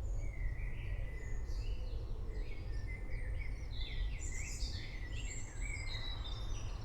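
Several birds chirping and singing, with short repeated calls, over a steady low rumble.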